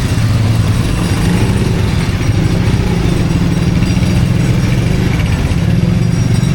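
A motor vehicle's engine idling steadily and loud, with a fast, even low throb.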